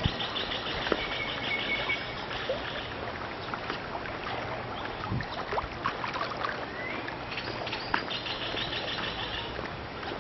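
Birds chirping outdoors. A fast pulsed chatter comes at the start and again near the end, and a short rising whistle comes in between, over a steady low hum and background hiss.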